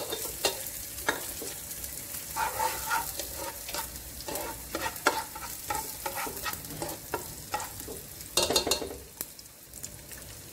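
Chopped garlic and onion sizzling in a little cooking oil in a nonstick pot while a spatula stirs them, scraping and clicking irregularly against the pot's bottom; the scraping is loudest about eight seconds in.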